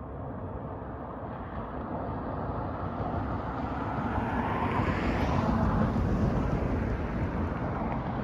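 Rushing noise of a passing vehicle, swelling steadily for about five seconds and then easing slightly.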